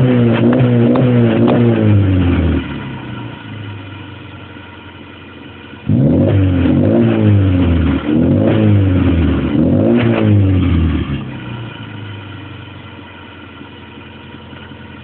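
Classic Mini's A-series four-cylinder engine revved repeatedly through its twin-tailpipe exhaust, dropping to a steady idle after about two and a half seconds. It is blipped up and down again from about six seconds in, then falls back to idle near the end.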